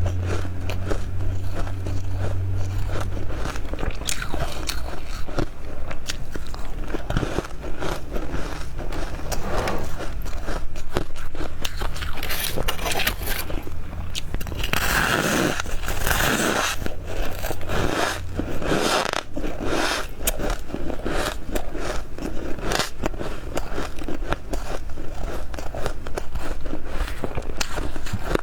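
Close-miked biting and chewing of powdery freezer frost: a continuous stream of soft crunches and crackles, with a louder cluster of crunches about halfway through.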